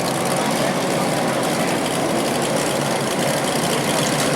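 Race truck engines running at low speed under a caution, a steady drone with no revving.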